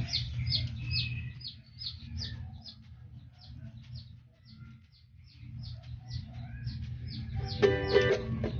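A small bird chirping over and over in short high notes, about four a second, with a brief louder pitched call near the end.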